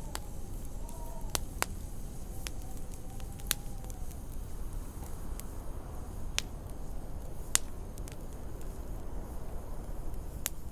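Wood fire crackling, with about seven sharp pops at irregular intervals, over a steady low rumble of wind. A faint howling whistle of wind rises and falls in pitch.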